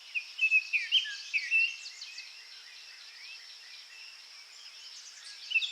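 Small birds chirping and whistling: a quick run of short chirps in the first two seconds, then a brief burst again near the end, over a faint steady high hiss.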